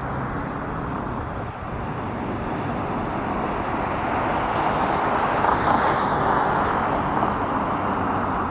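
Bell 505 helicopter circling overhead, its turbine and rotor noise swelling to a peak about five seconds in and then easing off.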